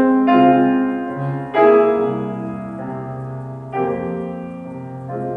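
Piano playing slow, sustained chords between sung phrases, each chord struck and left to ring, with a new one every second or two. The loudest chord comes about one and a half seconds in.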